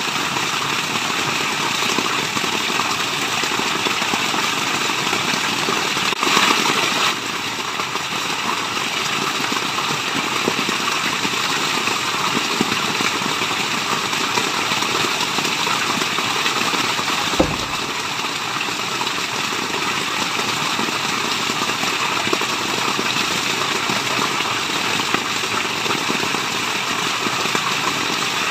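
Steady rushing water, an even full-range hiss of falling water, with a brief louder surge about six seconds in and a single sharp click a little past halfway.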